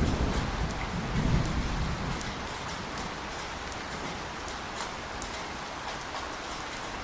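Thunderstorm: rain falling steadily with scattered drop ticks, and a low rumble of thunder in the first couple of seconds that dies away.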